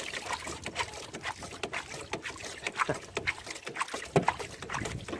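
Water splashing, with irregular knocks and clicks, as a hooked bass is fought to the boat and landed.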